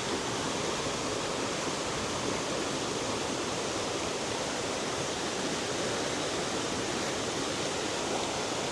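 Steady rush of a fast-flowing jungle river and waterfall, an even hiss of turbulent water.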